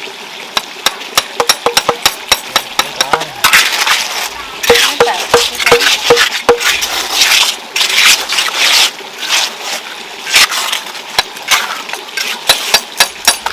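Masonry work on brick and stone steps: a steady run of sharp taps and knocks, with stretches of rough scraping between about three and nine seconds in.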